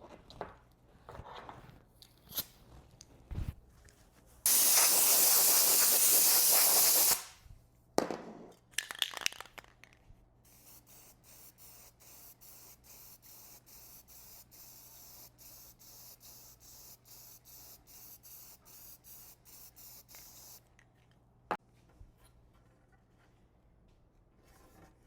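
Lacquer spraying onto a sanded board: one loud, steady hiss of about three seconds, then after some knocks and handling noise a softer hiss that pulses rapidly for about ten seconds.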